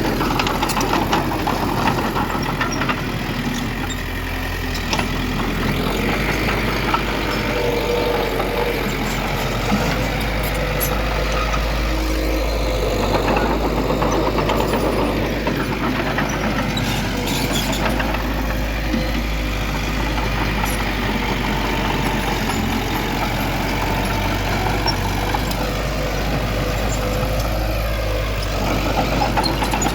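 Diesel engine of heavy earthmoving machinery running steadily at work.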